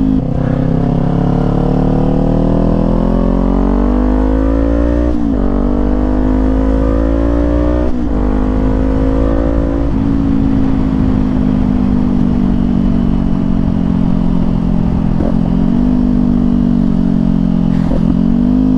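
Kawasaki Z400 parallel-twin motorcycle engine with an aftermarket exhaust accelerating through the gears: the pitch climbs, drops at upshifts about five and eight seconds in, climbs again, then settles into steady cruising. Low wind rumble underneath.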